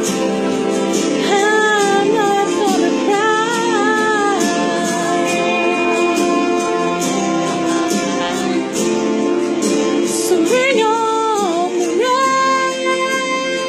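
A woman singing a country ballad over its instrumental backing, in short phrases and then one long held note near the end.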